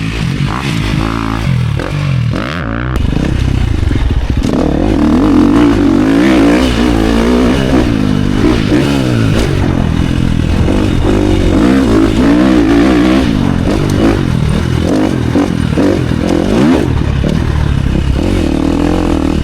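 Motocross dirt bike engine being ridden hard, revving up and down over and over as the throttle opens and closes; it gets louder about three seconds in.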